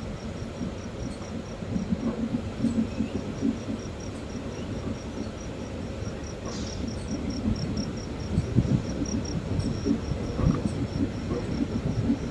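Passenger train running along the track: a steady low rumble with irregular rattling, a little louder in the second half. Over it, a faint, regular high chirp repeats about four times a second.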